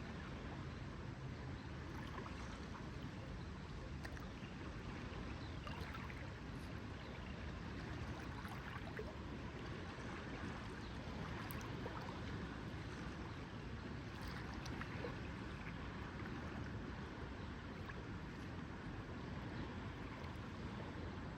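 Lakeside ambience: a steady wash of lake water lapping at the shore, with faint small splashes and ticks scattered through it.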